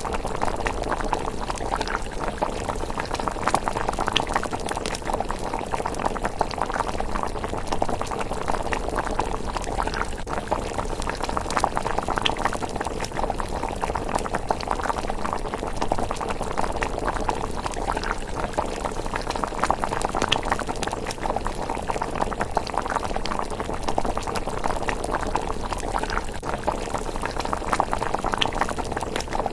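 Thick miso rice porridge bubbling steadily in a pot at a simmer, a dense, continuous run of small bubbling pops.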